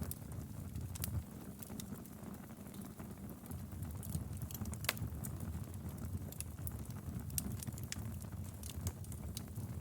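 Wood fire burning in a fireplace: a steady low rumble of flames with irregular sharp crackles and pops of the burning firewood, the loudest pop a little before halfway through.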